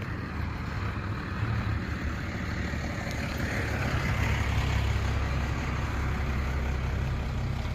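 A motor vehicle going by: a steady low engine rumble with road noise that swells around the middle and then eases off.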